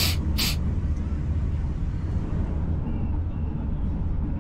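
Economy-class passenger train running, a steady low rumble, with two sharp clacks about half a second apart near the start.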